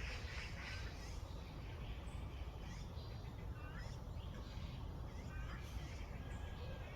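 Wild songbirds chirping and calling in short clusters of quick, curving notes, repeating every second or two, over a steady low outdoor rumble.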